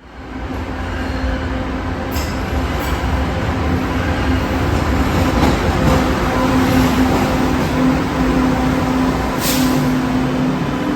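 MBTA Green Line light-rail train running on the D Branch: a steady low rumble with a constant motor hum, and a few brief high hisses or squeals, about two seconds in and again near the end.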